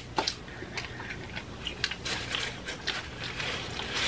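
A person chewing food, with scattered short clicks and soft crunches from the mouth.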